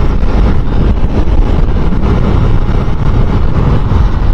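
Wind rushing over the rider's microphone with a Suzuki Inazuma 250 motorcycle running underneath as it is ridden along, a steady loud rumble.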